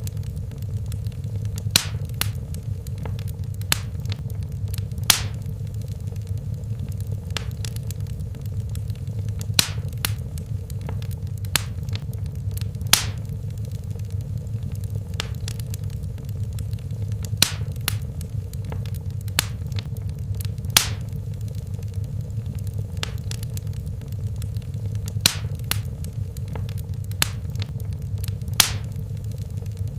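Fireplace fire crackling: sharp, irregular pops and snaps, a few clearly louder than the rest, over a steady low rumble of the flames.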